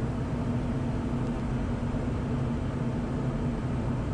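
Steady cockpit noise of a jet on final approach with its landing gear down: an even rush of airflow over a low, constant engine hum.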